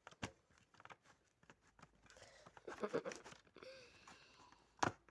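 Handling noise: scattered light clicks and rustling, with one sharp click near the end.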